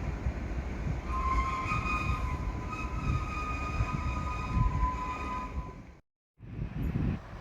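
A train running past, with a steady low rumble, joined from about a second in by several steady high-pitched tones lasting about four seconds. Near the end the sound cuts out abruptly for a moment, then another rumble begins.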